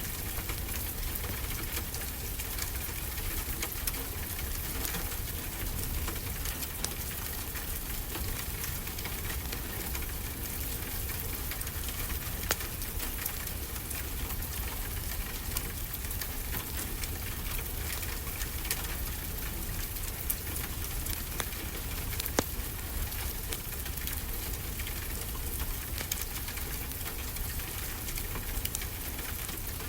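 Fireplace crackling with frequent small pops over a steady low rumble of ocean surf.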